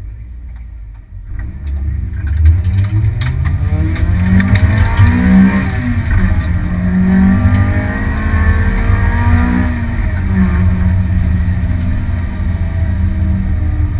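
Honda Civic's four-cylinder engine heard from inside the cabin, pulling away hard about a second in and revving up through the gears, its pitch climbing in long sweeps that break at the gear changes.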